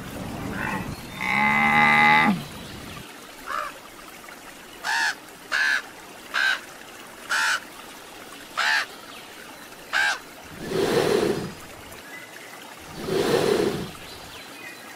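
A sequence of animal calls: a camel's long, deep, pitched call in the first seconds, then a crow giving about seven short harsh caws, then two longer, lower, rough calls near the end.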